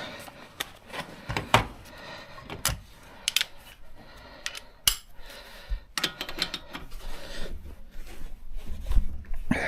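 Irregular metallic clicks and clinks of hand tools and loose metal parts being handled and set down.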